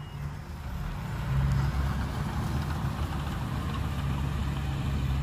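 Heavy diesel engine of earthmoving machinery running steadily at low revs, getting louder about a second and a half in.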